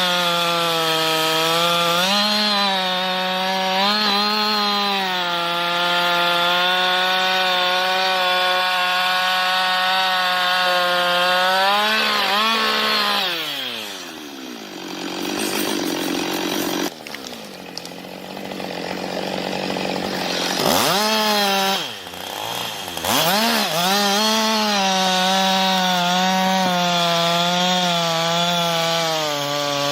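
Two-stroke chainsaw running at high revs while cutting through a log, its pitch held steady under load. About halfway through it drops off throttle, then revs back up and cuts again.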